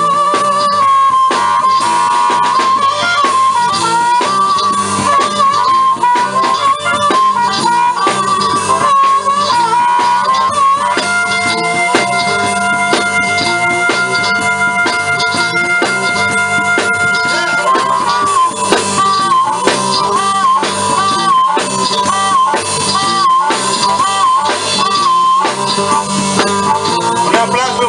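Live blues band in an instrumental break: a harmonica solo over guitar, with wavering, bent notes and one long held chord from about eleven to seventeen seconds in.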